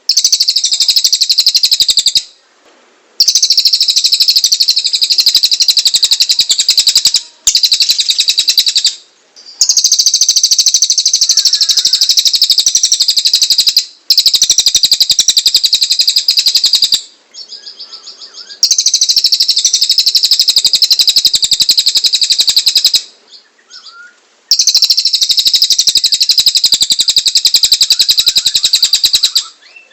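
Cililin songbird in full song, giving a loud, very rapid, harsh high trill in long runs of a few seconds with short pauses between them.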